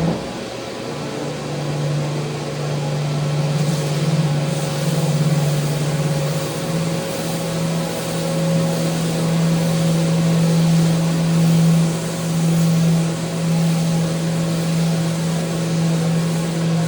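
Power sander running steadily on a handrail, a constant motor hum under the hiss of abrasive on the surface.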